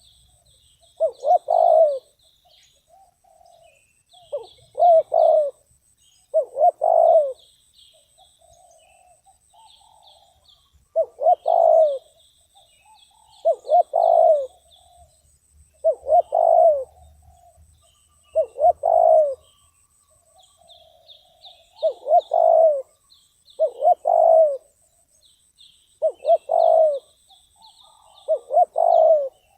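Spotted dove cooing over and over, about one call every two seconds, each call a short run of two or three low notes: a trained decoy dove calling to draw in wild doves. Faint high chirping and a steady thin high whine carry on underneath.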